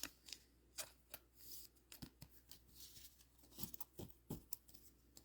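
Faint, irregular clicks and light snaps of cardboard trading cards being handled and shuffled through by hand, about a dozen small ticks spread unevenly.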